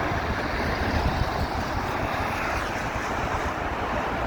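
Wind buffeting the microphone over a steady outdoor rushing noise.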